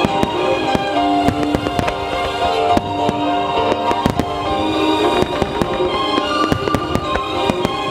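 Starmine fireworks shells bursting in rapid, irregular succession, many bangs and crackles overlapping, over music with long held notes.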